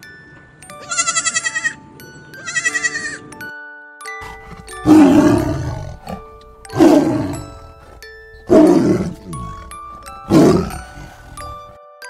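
A young goat bleats twice in a quavering voice, then a tiger roars four times, each call about a second long and falling in pitch. Light background music with bell-like notes runs underneath.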